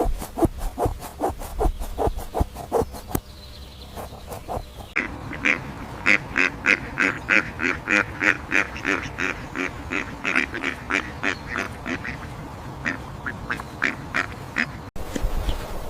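Farm fowl calling in a fast run of short, repeated calls, several a second, starting about five seconds in after a hard cut. Before it comes a rhythmic scraping or stepping sound of about four strokes a second.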